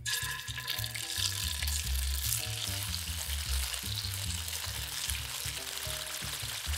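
Cubes of tofu sizzling in hot cooking oil in a nonstick pan. The sizzle starts suddenly as the first cube goes into the oil and then holds steady.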